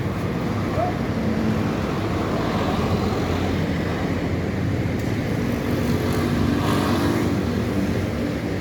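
Highway traffic with heavy trucks driving past: engines running with steady road and tyre noise, and one engine's note coming up louder from about six seconds in.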